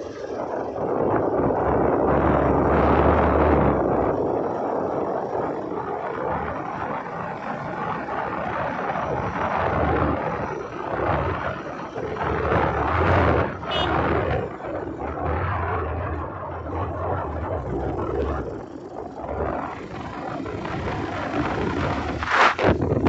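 Motorcycle on the move: its engine runs under a steady rushing noise of wind and road.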